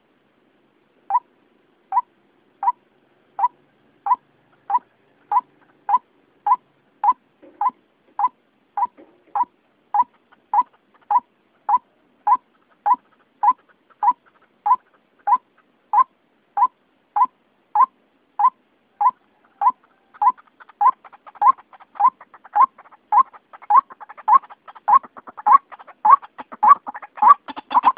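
White-breasted waterhen (ruak-ruak) lure call: one short note repeated steadily, about three every two seconds. Fainter calls begin filling the gaps between the notes about two-thirds of the way through.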